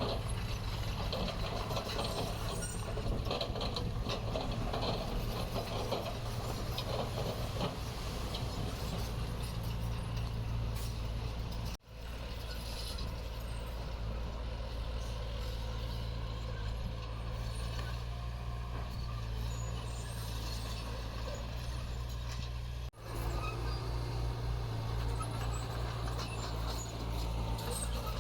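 Heavy diesel construction machinery running steadily with a low drone, with metallic clatter and rattling that is busiest in the first third. The sound cuts out abruptly twice.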